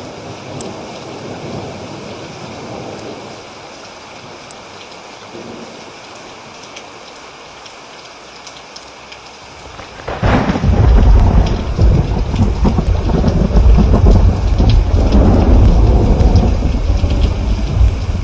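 Steady rain falling, with a few sharp drop ticks. About ten seconds in, a loud clap of thunder breaks and keeps rolling, its low rumble swelling again several times.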